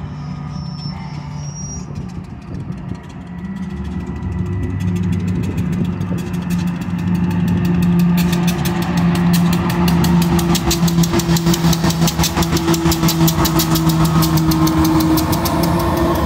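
Union Pacific diesel locomotives hauling a coal train, their engines droning steadily and growing louder as they approach. From about ten seconds in, a fast rhythmic clatter sets in as the units roll past.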